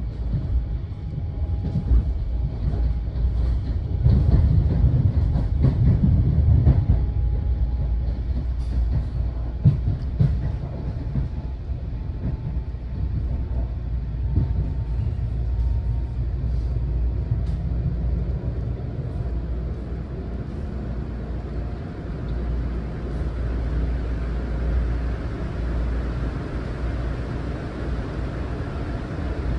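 Long Island Rail Road M9 electric train running, heard from inside the car: a steady low rumble of wheels on rail, with scattered clicks over the first ten seconds or so. A faint steady whine runs through the first half.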